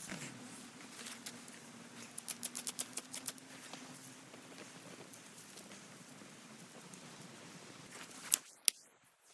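A quick run of light taps about two seconds in, then two sharp knocks half a second apart near the end.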